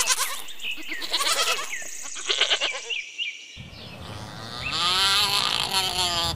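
Mouflon (wild sheep) bleating several short, quavering bleats. After about three and a half seconds a coypu (nutria) gives a long, wavering call.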